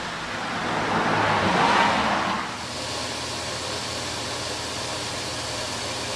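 A machine running with a steady low hum, with a louder rushing noise that swells and fades in the first two and a half seconds.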